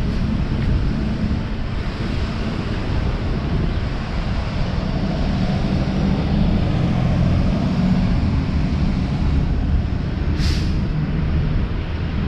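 Outdoor street ambience: a steady low rumble throughout, with a short hiss about ten seconds in.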